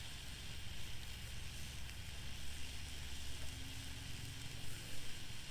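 Hot dogs sizzling in a pan on a stove, a steady hiss over a steady low rumble.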